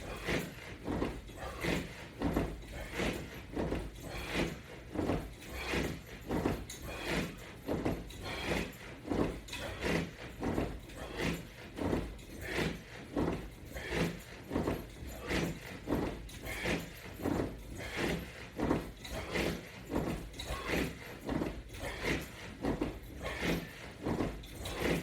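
Rapid, steady repetitions of a resistance-band crunch exercise: an even rhythm of short strokes, about three every two seconds, from the body and the band equipment moving on each rep.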